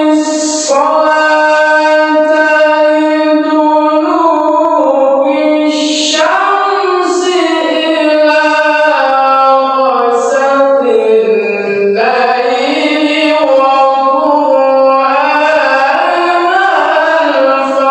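Quran recitation in the melodic tilawah style: one long, ornamented phrase sung on a single breath in a high voice, the pitch wavering and turning through the line.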